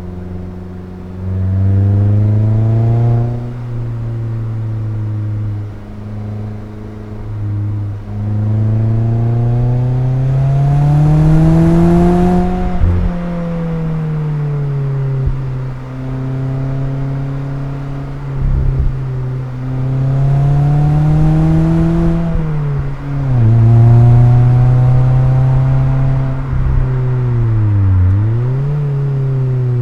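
Mazda MX-5's four-cylinder engine and exhaust under way. The revs climb under acceleration and drop sharply at gear changes several times, easing back to a steady cruise in between. Near the end the revs dip briefly and pick up again.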